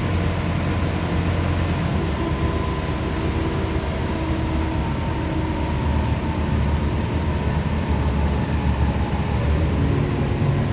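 Scania CN270UB city bus heard from inside while driving: steady engine and drivetrain rumble with road noise, with faint whining tones that shift slightly in pitch.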